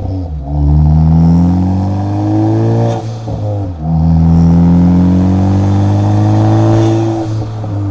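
Turbocharged car engine accelerating through the gears, heard at the exhaust and intake: the engine note climbs steadily for about two and a half seconds, drops abruptly at an upshift, climbs again for about three seconds, and drops again at another shift near the end.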